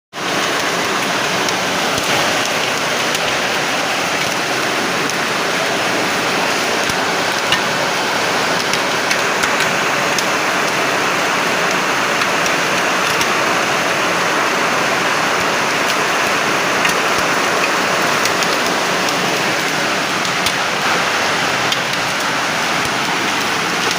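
Heavy storm downpour, a dense steady hiss with scattered sharp ticks of impacts.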